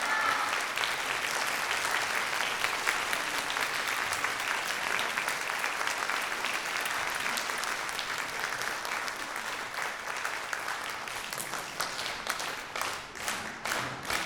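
Audience applauding: dense at first, then thinning, and near the end turning into slower rhythmic clapping in unison.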